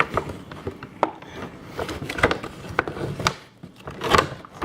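Handling of a cardboard toy box and its plastic insert as a vinyl figure is pulled out: irregular clicks, knocks and rubbing of cardboard and plastic, with a louder knock or crinkle about four seconds in.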